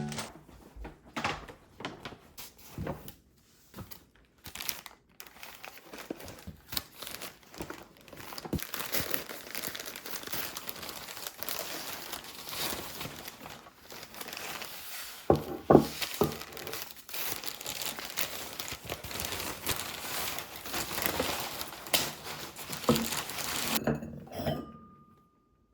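Rustling and crinkling with scattered light knocks, as of kitchen packaging and dishes being handled; the crinkling runs on for most of the time, with a few louder knocks partway through, and stops shortly before the end.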